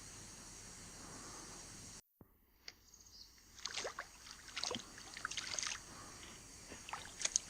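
Steady high insect chirring that cuts off suddenly about two seconds in, followed by a run of irregular water splashes and drips beside a kayak, with a few small knocks.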